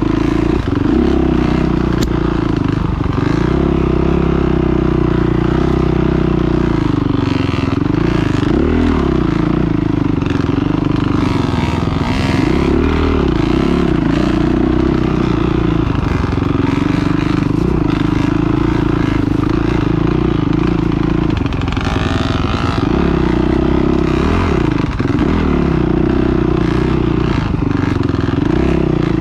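Motocross dirt bike engines revving up and down without a break, the pitch rising and falling every second or two as the throttle is worked.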